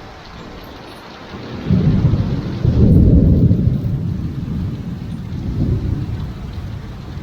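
Thunder rumbling over steady rain. The low rumble swells in about a second and a half in, peaks about a second later, then rolls off with a smaller second swell near the end.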